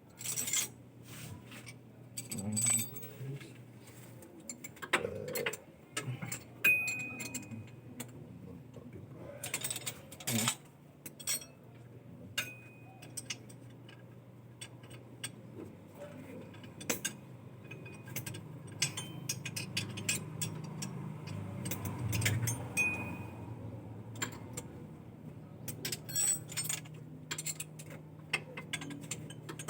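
Scattered sharp metallic clinks and knocks, like metal parts or tools being handled, over a steady low hum.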